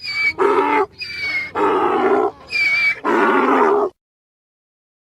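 Donkey braying: a loud hee-haw repeated about three times, each high, thin intake note followed by a longer, lower harsh note, stopping about four seconds in.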